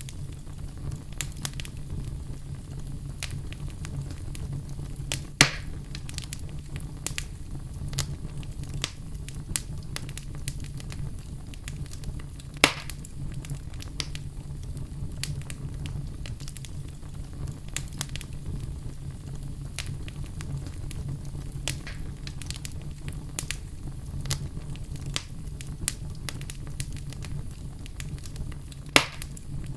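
Fire burning in a fireplace: a steady low rumble under frequent small crackles, with three louder pops about five seconds in, about halfway through and near the end.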